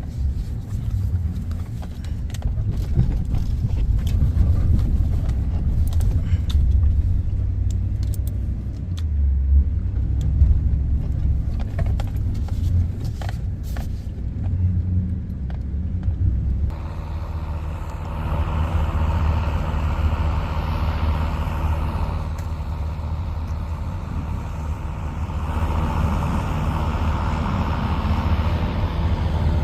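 Engine of a snowplow vehicle running steadily under load while plowing, with scattered clicks and rattles. About two-thirds of the way in the sound changes abruptly to a steadier engine note with a mid-range hum.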